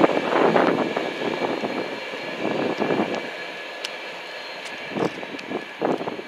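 Freight train of covered hopper wagons rolling away on the rails: a rumbling clatter of wheelsets passing over rail joints in uneven clusters, fading as the train recedes.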